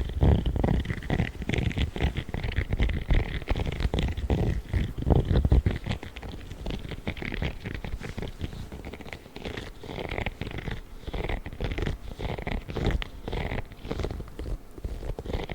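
Spiky gloves rubbed and scratched close to the microphone in quick, continuous strokes, louder in the first six seconds.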